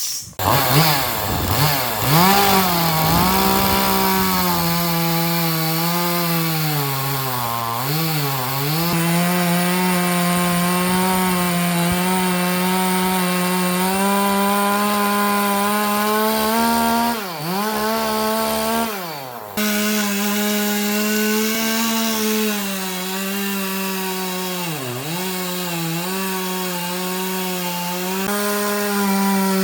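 Chainsaw running at high revs while cutting through wood. The engine note sags briefly several times as the chain bogs in the cut, then recovers.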